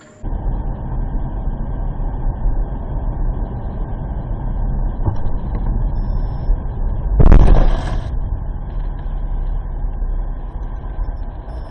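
Road vehicle driving with a steady low rumble of engine and road noise, then a loud crash of about a second, about seven seconds in: a traffic collision.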